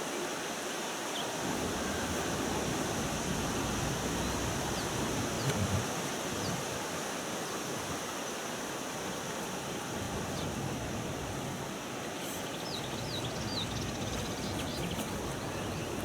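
Steady rushing outdoor noise, with a few faint high chirps about five seconds in and again around twelve to thirteen seconds in.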